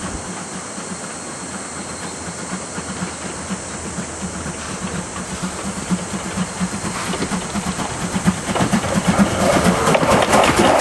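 C56 steam locomotive approaching with a steady hiss of steam and a regular beat, growing louder about two-thirds of the way in.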